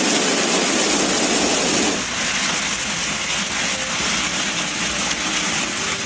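Hail and heavy rain pelting down, a loud, dense, even noise. About two seconds in it changes abruptly to a thinner, hissier sound.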